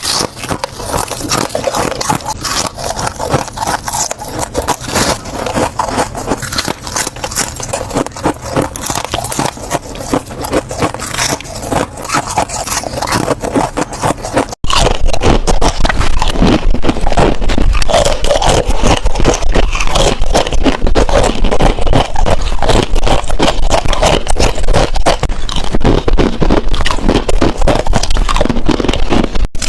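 Ice being bitten and chewed close to the microphone: dense, rapid crunching and cracking with no pause. About halfway there is a sudden cut, after which the crunching is louder and heavier.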